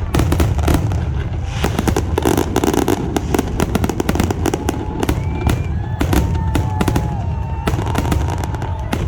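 Fireworks going off in a dense, continuous barrage of crackling pops and bangs over a low rumble, with a few thin whistling tones gliding in pitch partway through.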